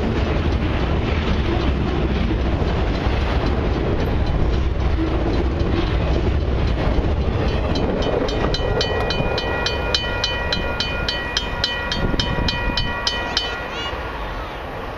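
Tail end of a long intermodal freight train rolling past, a steady rumble and clatter of wheels on rail joints that fades out about halfway through. Once the train has cleared, the level-crossing bell is heard ringing in rapid, evenly spaced dings, and it stops shortly before the end, the sign that the crossing signals are switching off and the gates are lifting.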